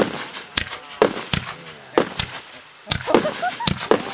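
Display (1.3G) aerial fireworks bursting overhead: about ten sharp bangs in quick, uneven succession, each with a short echoing tail.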